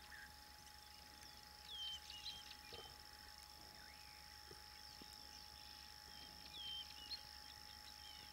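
Faint outdoor ambience: a bird sings a short phrase of whistled, down-sliding notes about two seconds in and again near seven seconds, over a steady high, thin tone.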